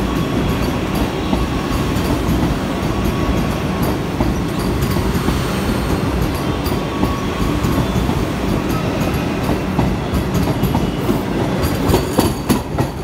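Vande Bharat Express electric multiple-unit train passing close by: a steady loud rumble of its wheels on the rails, with a run of sharp clicks near the end.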